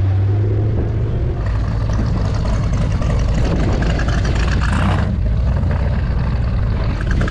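Classic American car engines idling and running at low speed. A steady low engine note cuts out about a second in.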